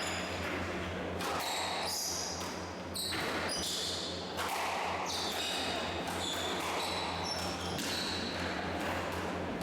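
Squash rally: the ball cracking off rackets and court walls several times, with frequent short, high squeaks of players' shoes on the court floor, over a steady low hum.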